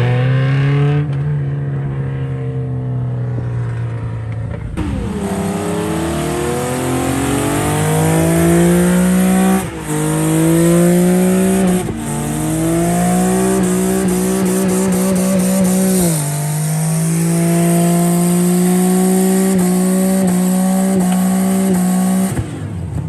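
Car engine revving hard: its pitch climbs, drops sharply four times and holds steady at high revs in between, then cuts off near the end.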